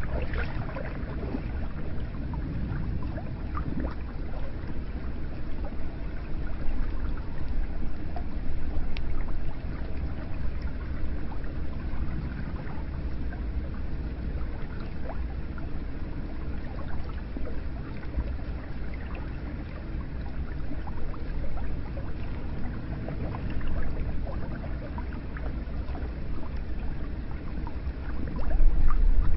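Hot spring water flowing and splashing steadily into a bath, with a deep rumble underneath and small drips and ticks scattered through it; it swells a little louder near the end.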